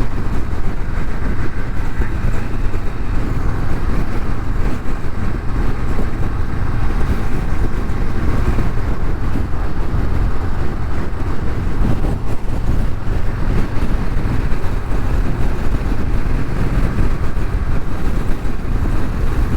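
Motorcycle riding at road speed, heard from the rider's seat: wind blast on the microphone over the steady rumble of the Harley-Davidson Street Bob's engine and exhaust.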